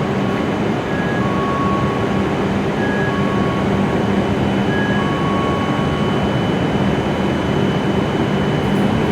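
W7 series Shinkansen train running into the platform, a loud steady rush with a low hum, while a short two-note chime repeats about every two seconds and stops about six seconds in.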